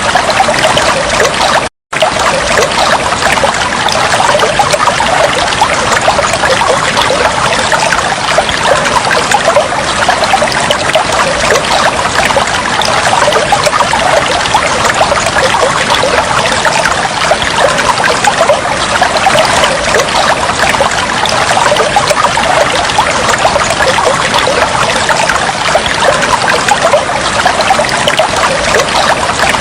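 Steady trickling, flowing water, with a dense splashing texture; it cuts out for an instant about two seconds in.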